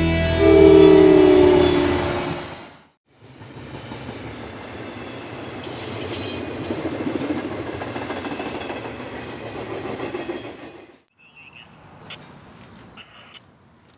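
Music fades out about three seconds in. It is followed by a freight train running past with a steady rumble and rail noise for several seconds. After a sudden cut, fainter train and track sounds follow, with a few brief high-pitched tones.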